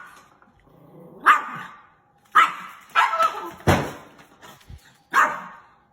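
A dog barking, about six barks at irregular intervals with gaps of up to a second or so between them.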